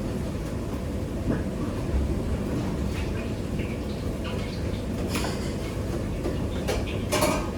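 Steady low rumble of a working restaurant kitchen, with a few brief clatters and scrapes of utensils and cookware over it. The loudest clatter comes near the end.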